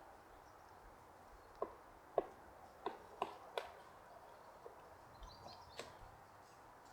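Pileated woodpecker chiseling into wood: a few sharp, irregular knocks in quick succession, then several fainter taps, as it excavates a hole.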